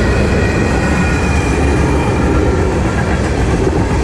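Freight train cars (covered hoppers and tank cars) rolling past: a steady loud rumble of wheels on rail, with thin steady high-pitched tones over it.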